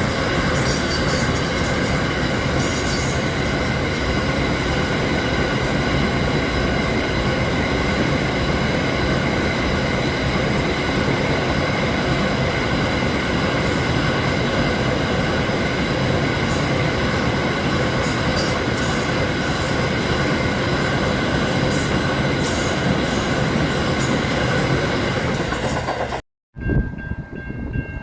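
A train running close by: steady rumble with several steady whining tones over it. About 26 s in it cuts off abruptly, and a different recording with a steady tone follows.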